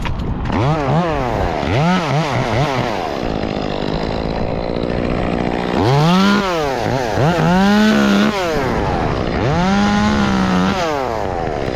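Chainsaw revving in repeated bursts as it cuts branches, the pitch climbing and dropping with each squeeze of the throttle: two quick revs in the first few seconds, then longer runs held at high speed about six to eight seconds in and again near ten seconds.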